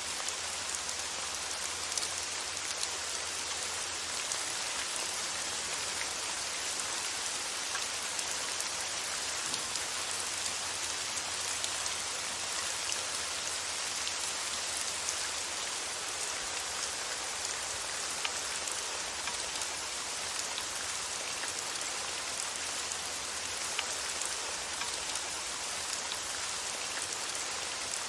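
Steady rain, with scattered individual drops ticking through the hiss.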